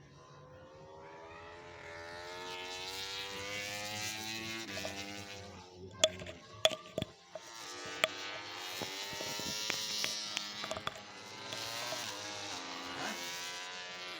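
MotoGP race motorcycles running on the circuit, their engine note swelling as they come by, twice over. Several sharp cracks sound in the middle.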